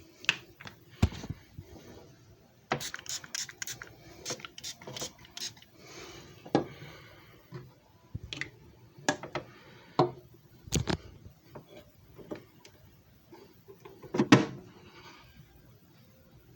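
Clicks and knocks of things being handled by hand, with a quick run of about ten clicks a few seconds in and single louder knocks after, the loudest near the end.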